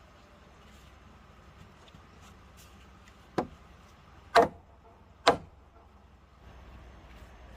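Three sharp knocks about a second apart, the middle one the loudest, over a faint steady background.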